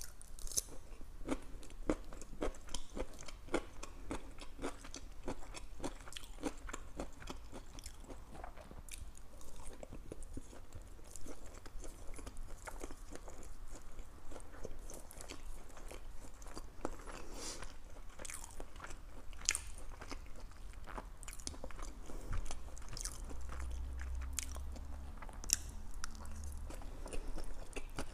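Close-miked chewing of Chinese takeout (broccoli and lo mein noodles): a steady run of small wet clicks and crunches of biting and chewing, picked up by a clip-on microphone on the eater's shirt.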